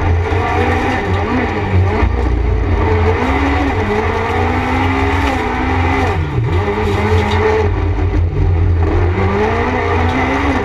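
Peugeot 206 race car's engine heard from inside the cabin, driven hard with the revs rising and falling through the corners. The engine note drops sharply and picks straight back up about six seconds in.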